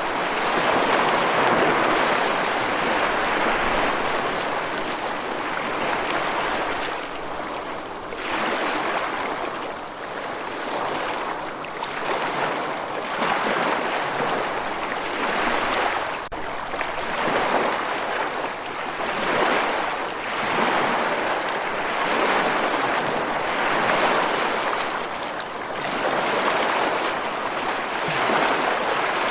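Rushing water: a steady noise that swells and eases every few seconds.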